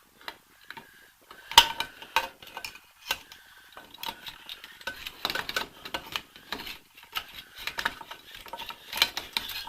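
Metal rear drum-brake parts being handled and fitted by hand: irregular clinks, taps and scraping, with a sharp clank about a second and a half in and another near the end.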